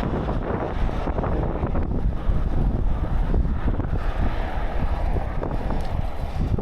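Wind buffeting the microphone of a camera carried on a moving bicycle: a steady, loud rush heaviest in the low rumble.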